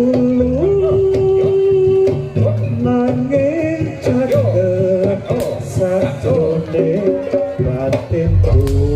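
Live Javanese jaranan ensemble music: a wavering melody line with long held notes over low percussion.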